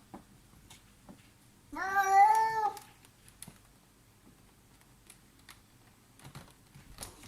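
A domestic cat meowing once, a single drawn-out meow of about a second, with faint scattered clicks and taps around it.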